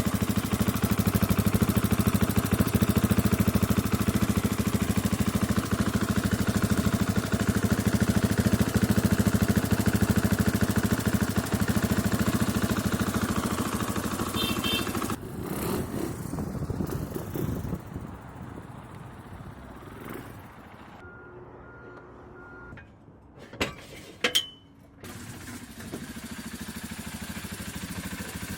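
KTM 500 EXC single-cylinder four-stroke dirt bike engine running steadily with an even thumper beat, then cutting off abruptly about fifteen seconds in. In the quieter stretch after it come three short electronic beeps and a couple of sharp clicks.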